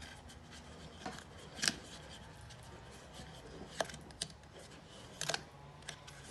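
A few scattered sharp clicks and light taps against a quiet background, the most distinct about two, four and five seconds in.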